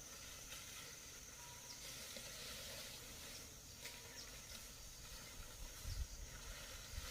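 Faint outdoor background hiss with a thin steady high tone, a few faint clicks, and some low bumps about six seconds in.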